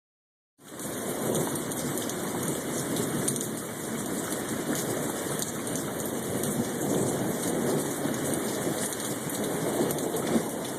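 Heavy rain pouring steadily in a thunderstorm, starting abruptly about half a second in.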